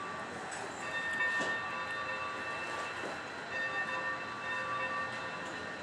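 Train moving on the rails, with a steady noise and several thin high tones that break off for a moment about two seconds in and come back.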